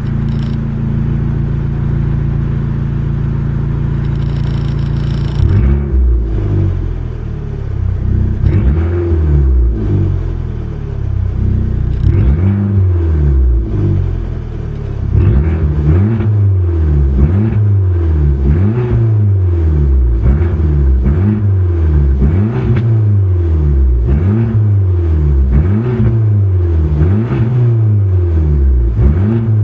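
Fiat Abarth's engine holding a steady speed, then from about six seconds in revved up and let fall again over and over, roughly every second and a half.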